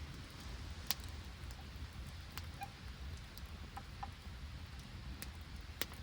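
Wood campfire crackling in wet weather: scattered sharp pops and ticks, two louder pops about a second in and near the end, over a steady patter of rain.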